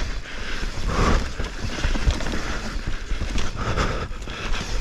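Mountain bike descending a steep dirt trail: a rumbling rush of tyres over rough ground with frequent small knocks and rattles from the bike, and wind buffeting the microphone.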